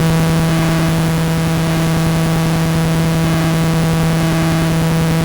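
A loud, steady buzzing hum with evenly spaced overtones, over a constant hiss.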